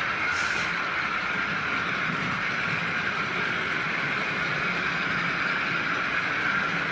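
OO gauge model train running steadily on the layout's track: an even whir of the locomotive's motor and wheels on the rails.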